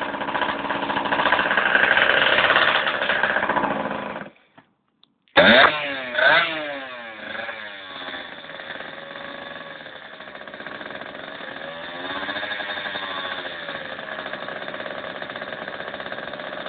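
65cc two-stroke motocross bike engine running and revving. The sound breaks off for about a second, then the engine revs up sharply with quick rises and falls in pitch and settles into a steadier run, its pitch wavering gently.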